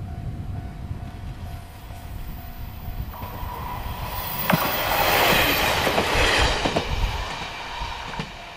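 Single-car diesel railcar approaching and passing close by: a low engine rumble grows to a loud peak of rolling noise about five seconds in, with wheels clicking over rail joints several times, then dies away as the car moves off.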